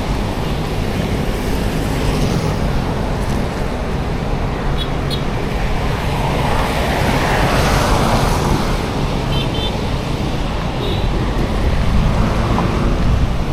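Street traffic: a steady low rumble of motor vehicle engines and tyre noise, with one vehicle passing close about halfway through, its noise swelling and fading.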